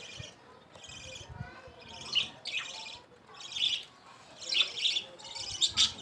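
Birds chirping in a string of short, high calls, about one or two a second, growing louder from about two seconds in.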